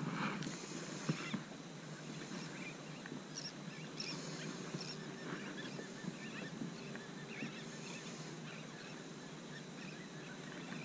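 Faint, many overlapping short bird calls from a flock, with a single sharp click about a second in.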